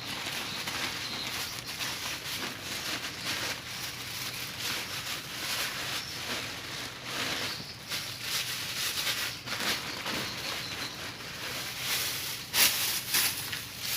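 Rustling and light crackling from dry swiftlet nests being handled and sorted by hand, irregular throughout, with a louder rustle near the end.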